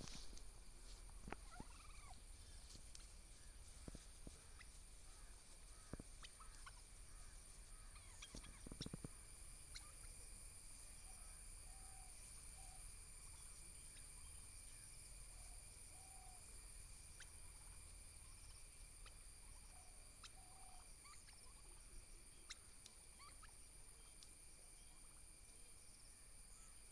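Domestic turkeys calling faintly: short, soft notes repeated every few seconds, with a few scattered knocks and scuffs in the first nine seconds.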